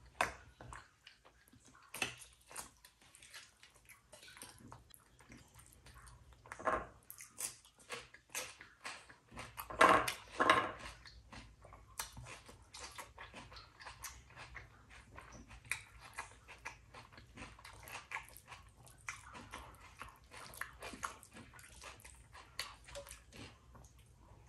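Close-up eating sounds: a person chewing and smacking on rice and curry, with many short wet clicks from the mouth and a louder pair of mouth sounds about ten seconds in.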